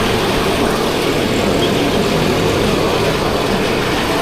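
50cc motor scooter riding flat out at its top speed: a steady engine drone under rushing wind and traffic noise.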